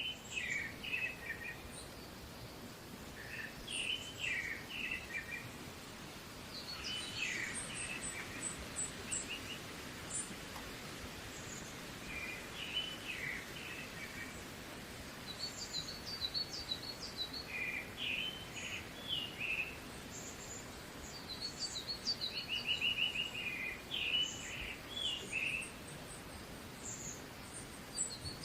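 Small birds chirping and twittering in short repeated phrases every few seconds, over a steady background hiss of outdoor noise.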